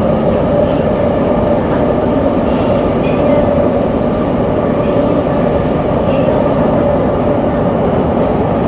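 Tokyo Metro 7000-series subway car with Hitachi IGBT-VVVF drive running steadily at speed: a loud, even rumble of wheels on rail with a steady tone through it. In the middle, faint high-pitched wheel squeal comes and goes.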